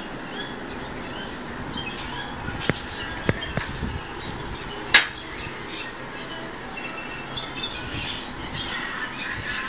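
A small bird chirping repeatedly, with several sharp clicks. The loudest click comes about halfway through.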